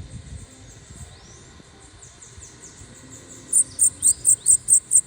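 Bananaquit singing: soft, high, falling chirps, then about three and a half seconds in a loud, rapid run of sharp, very high notes, about five a second.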